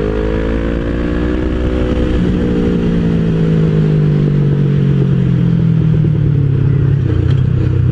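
Motorcycle engine running under way, its pitch climbing for about two seconds. A deeper, steady engine note then takes over and slowly drops in pitch.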